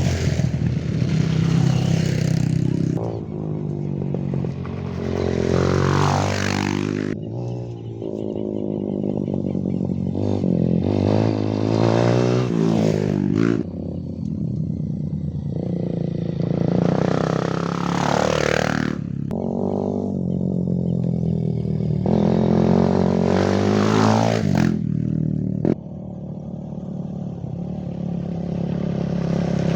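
Trail motorcycle engines revved in neutral, the pitch sweeping up and falling back several times over a steady running note. The sound changes abruptly about 7 and 26 seconds in.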